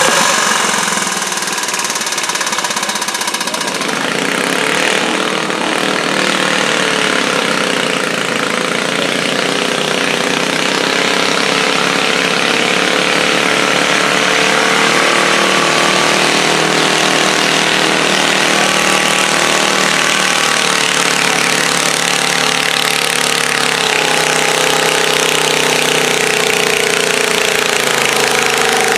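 Pulling garden tractor's engine running loud and steady, its pitch wavering slightly up and down.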